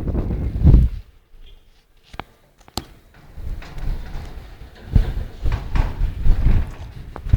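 Storm wind gusting and buffeting against the microphone in low, uneven rumbles with thump-like peaks, easing for a couple of seconds with a few sharp clicks before the gusts return.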